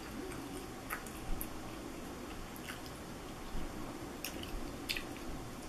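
A person chewing a fried chicken nugget, with a few short, soft wet smacks and crunches spread through the chewing.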